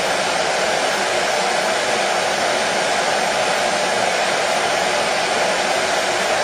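Hair dryer running at a steady, unchanging pitch: a continuous whooshing blow with a strong mid-pitched hum.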